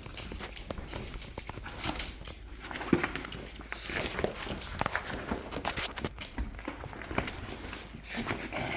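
Footsteps and movement on a hard floor: a run of irregular taps and clicks, the sharpest about three seconds in.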